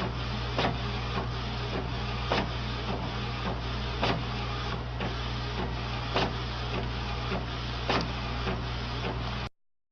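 A printer running: a steady mechanical whir with a low hum and recurring sharp clicks. The sound cuts off abruptly near the end.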